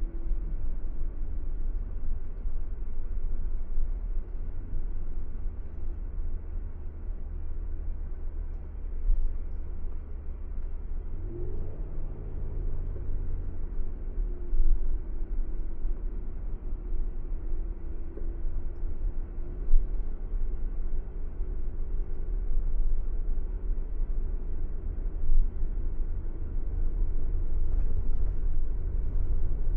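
Car driving on a road: steady low engine and road rumble, with the engine's note stepping up in pitch about a third of the way through and then holding.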